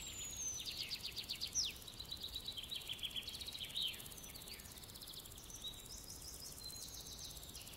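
Faint birdsong: small birds chirping, with rapid trills of quickly repeated notes and a few quick downward whistles.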